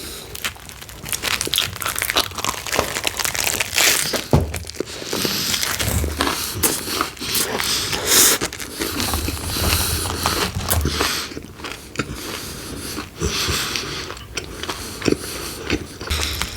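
Close-miked eating of pepperoni pizza: irregular bites and chewing with crackly, crinkling mouth noises, and a few dull low thuds along the way.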